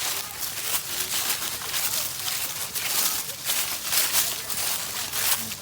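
Several people's footsteps crunching along a forest path, with a quick, uneven run of crisp crackles.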